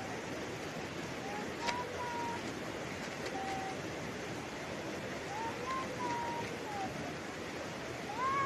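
Steady rushing of water, with short high wavering calls now and then above it.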